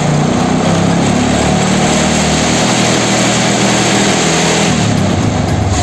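Honda Supra motorcycle's single-cylinder four-stroke engine running steadily at raised revs, throttle held open to load the charging system while the battery voltage is measured. It eases off near the end.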